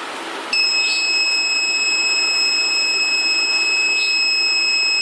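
Electronic buzzer of an automated railway gate control system sounding one continuous high-pitched tone, starting about half a second in, as the warning of an approaching train and closing gate.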